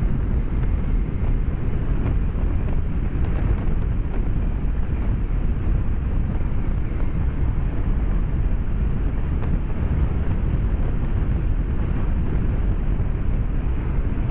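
Steady wind rush and engine drone from a BMW K1200S motorcycle cruising along, heard through a microphone inside the rider's helmet.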